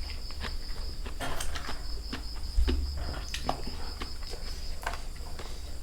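Crickets chirping in one steady high trill, with scattered short clicks and crunches of someone eating.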